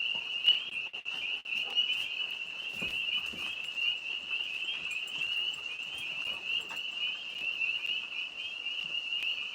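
A chorus of tree frogs calling without a break at one high, even pitch, with a fast trilling pulse. Faint small clicks sound here and there underneath.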